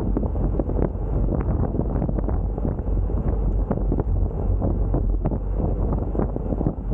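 Wind buffeting the microphone: a loud, steady rumble with irregular fluttering gusts.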